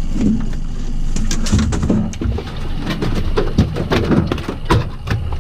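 Irregular knocks, thumps and clatter as a freshly landed king salmon is handled on a boat, the hook already out of its mouth.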